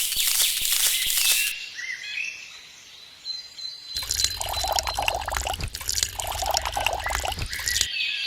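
Water pouring and splashing in two stretches: the first stops about a second and a half in, and the second starts about halfway through, with a low hum beneath it.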